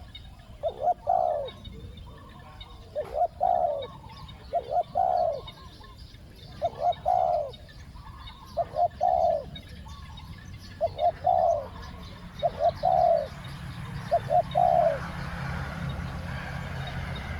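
Spotted dove cooing: about eight repeated phrases, each a couple of short notes followed by a longer arched coo. A steady low rumble and hiss comes in near the end.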